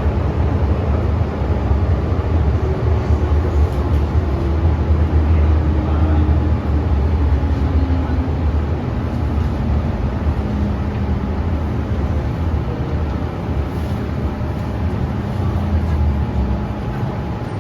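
MTR M-Train electric multiple unit running on the line, a steady heavy rumble of wheels and running gear. A faint whine slides down in pitch over several seconds partway through.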